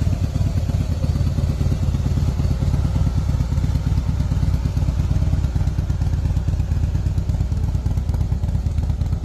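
Harley-Davidson Softail CVO's 110 cubic inch V-twin engine running steadily at a constant speed, its exhaust pulses low and even with no revving.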